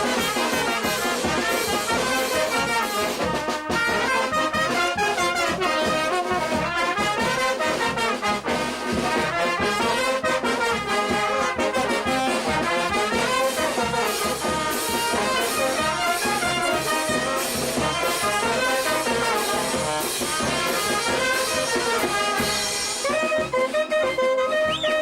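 Brass band playing a tune without a break, trumpets and trombones carrying the melody over a steady beat.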